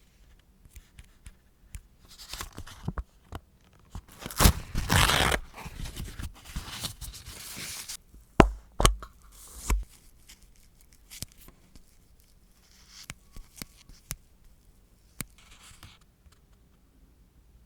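Close-up handling noises from nail-art work: a few seconds of tearing or rasping, then several sharp clicks and taps, with smaller ticks afterwards.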